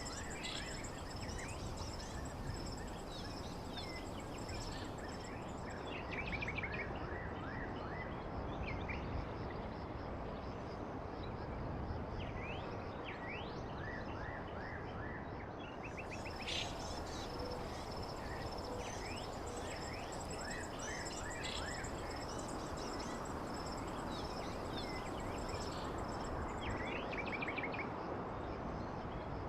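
Small birds chirping again and again over a steady background hiss, with a thin, steady high-pitched whine that drops away for a while in the middle.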